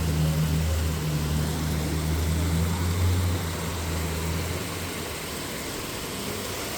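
Rain falling steadily, with the low steady hum of a vehicle engine that fades out about two-thirds of the way through, leaving only the rain.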